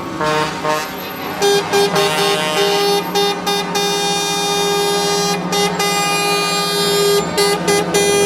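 Truck air horns blowing, a string of short toots followed by longer held blasts, over a steady lower drone.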